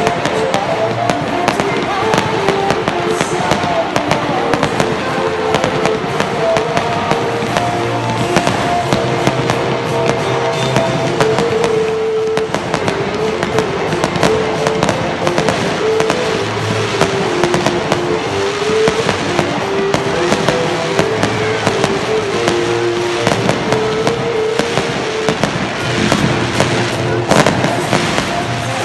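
Fireworks display: continuous crackling and popping of bursting shells and fountains, with music playing underneath.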